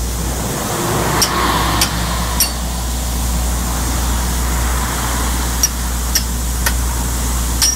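A vehicle engine running steadily, with a few sharp knocks in small groups about half a second apart.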